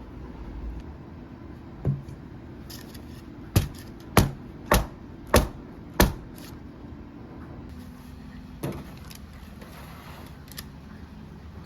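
A series of sharp clicks or taps, five in a row about two thirds of a second apart, with single ones before and after, over a steady low hum.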